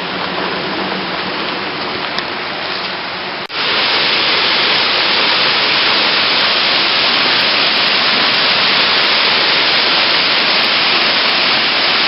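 Rushing, pouring water, a steady noise that cuts abruptly about three and a half seconds in and comes back louder and brighter.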